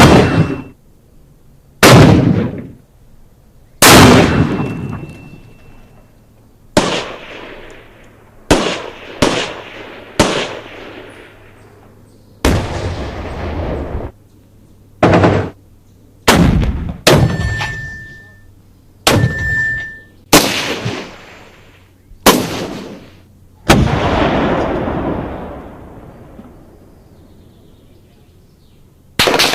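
Single gunshots fired one at a time, about fourteen, spaced one to three seconds apart, each sharp crack followed by a fading tail. Two shots near the middle carry a brief high ringing tone.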